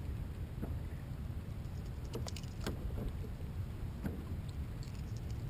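Kayak and fishing tackle as a fish is reeled in. Light clicks and knocks come now and then over a steady low rumble.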